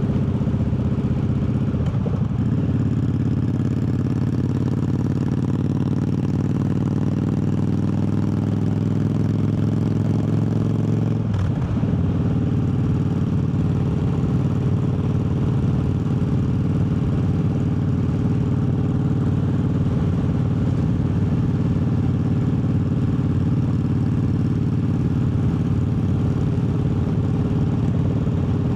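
Triumph Bobber's 1200 cc parallel-twin engine under way. Its pitch climbs slowly as the bike accelerates and drops sharply with an upshift about eleven seconds in, after a brief shift a couple of seconds in. After that it holds steady at cruising speed.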